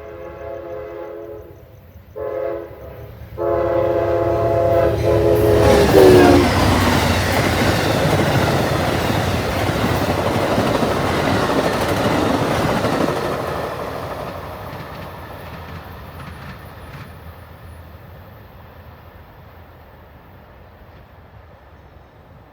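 Train horn sounding a long blast, a short one and another long blast that drops in pitch as the locomotive passes, the end of a grade-crossing signal. The train then rumbles past with clattering wheels and slowly fades away.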